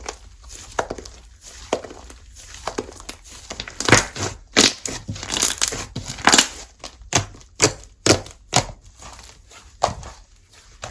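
Slime being squeezed, stretched and pressed by hand, giving irregular sharp pops and crackles, loudest and densest through the middle of the stretch.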